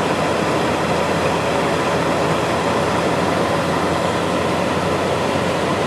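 Steady running noise of a moving vehicle heard from inside the cabin: an even rumble and road hiss with a low drone, unchanging throughout.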